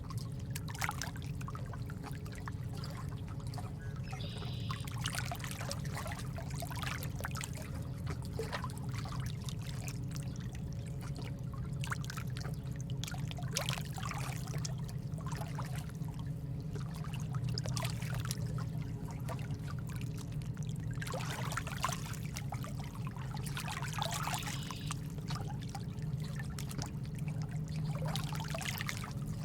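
Trickling, splashing water ambience, an uneven run of small splashes over a steady low hum.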